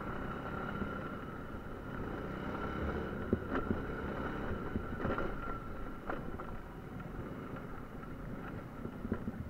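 Small moped engine running low and steady, with wind noise on the microphone and a few light knocks in the middle.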